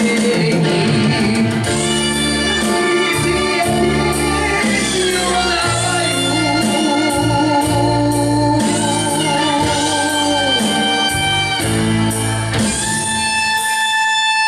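A rock band playing the closing part of a song, with a steady drum beat, bass, guitar and a wavering held melody line.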